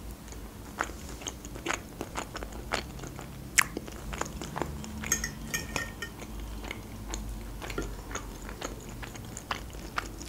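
A person chewing and crunching food in a quick, irregular run of small clicks, with a fork clinking on a plate about five seconds in.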